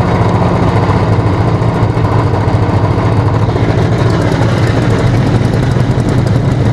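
Engines of a radio-controlled B-17G scale model running steadily at a constant pitch.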